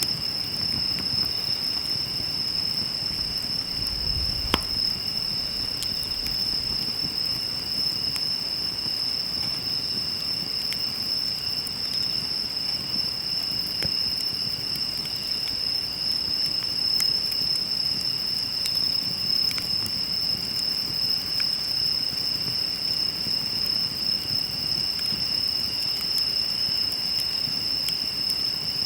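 Insects singing in a steady, high-pitched chorus, with the odd faint crackle and pop of a wood fire; one sharper pop comes about four and a half seconds in.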